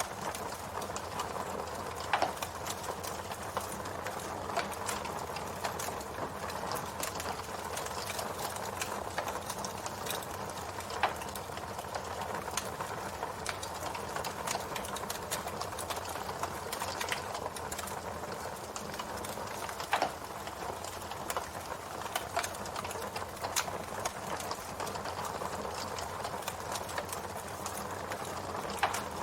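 Campfire burning steadily, a dense crackle of small clicks over a soft hiss, with a few louder pops spaced several seconds apart.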